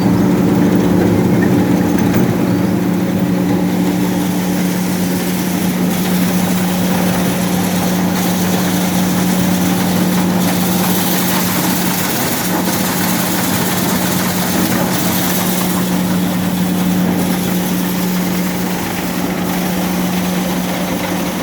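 Grain-cleaning and seed-treating machine running with a steady, even hum, and a faint tick about every two seconds.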